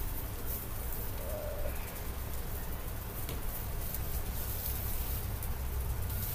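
One short bird call about a second and a half in, over a steady low rumble.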